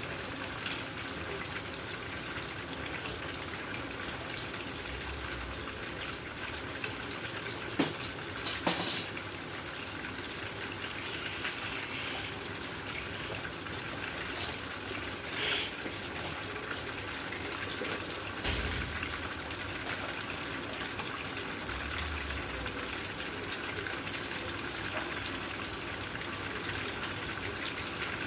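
Ground beef and spaghetti sauce cooking in a pan over high heat, a steady sizzling hiss, with a few sharp knocks of a utensil against the pan, the loudest about nine seconds in.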